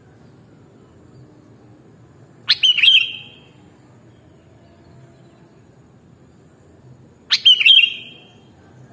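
Sooty-headed bulbul (kutilang) calling: two short phrases, each about a second long, roughly five seconds apart, over a faint low background noise.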